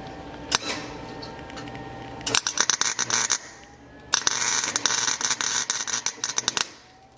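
Chicago Electric welder's arc crackling and hissing as it lays bead on a steel exhaust pipe, in two runs: a short one of about a second, then a longer one of about two and a half seconds.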